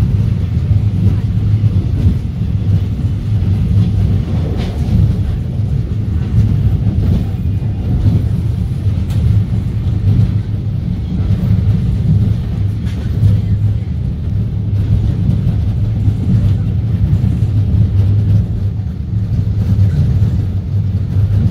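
Passenger train running at speed, heard from inside a carriage: a steady, loud, low rumble of the wheels and running gear on the track.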